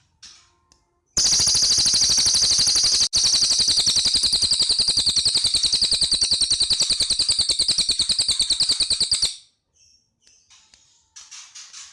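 Cililin songbird giving a long, loud, very rapid rattling trill lasting about eight seconds, with one brief break about two seconds into it. Softer, high chirping phrases come just before and after the trill.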